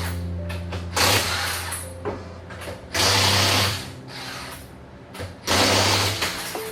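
Impact wrench running in three short bursts of under a second each, about two seconds apart.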